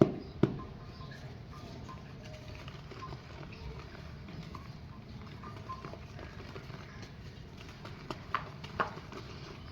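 Dry clay pots being crushed and crumbling: two sharp cracks at the start, scattered small crackles of falling bits, and a few louder cracks near the end.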